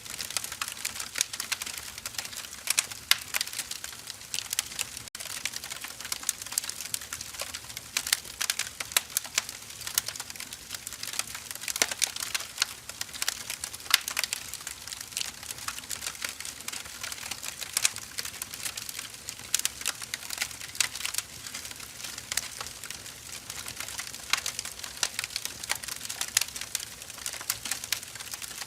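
Wood fire burning, with a steady hiss and dense, irregular crackling and snapping of the burning logs.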